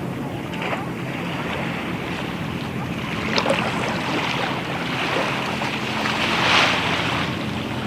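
Boat engine running steadily, under a continuous rush of water and wind on the microphone. The rush swells louder about six and a half seconds in.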